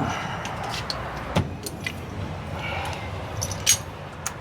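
A few sharp metallic clinks and knocks of tools being set against a blower motor's pulley, one with a brief ring, over a steady low machinery hum.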